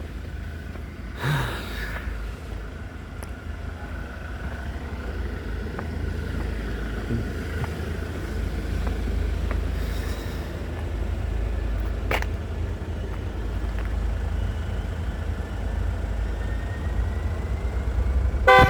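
Freight train rolling past with a steady low rumble, with a brief noisy burst about a second in and a sharp click midway. A short horn toot sounds right at the end.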